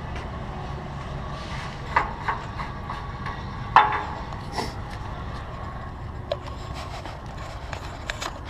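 Steady low rumble of an idling semi-truck, with a few sharp knocks and clanks, two close together about two seconds in and the loudest near four seconds.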